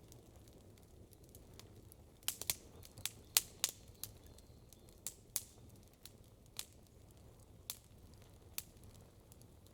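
Campfire wood burning and crackling, with sharp pops. A quick cluster of pops comes a couple of seconds in, then single pops follow about once a second over a low steady rumble.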